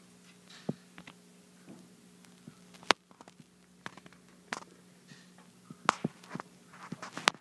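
Irregular light taps and clicks, with three sharper ones about three seconds in, about six seconds in and near the end, over a steady low hum.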